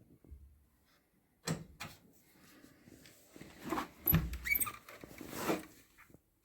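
Irregular knocks, clicks and scrapes of tools and parts being handled. The loudest is a thump about four seconds in, followed by a brief high metallic ring.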